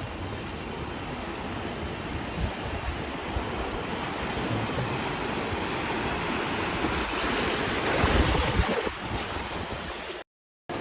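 Steady rush of a torrential rainstorm, with heavy rain and water and wind buffeting the microphone. It swells louder about eight seconds in, then cuts out abruptly near the end.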